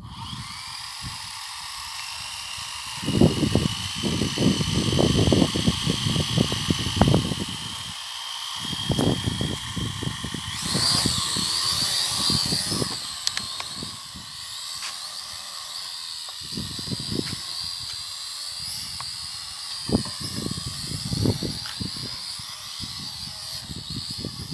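Drone propellers whining steadily, the pitch stepping up and growing louder about ten seconds in as the motors throttle up. Gusty wind buffets the microphone with repeated low rumbles throughout.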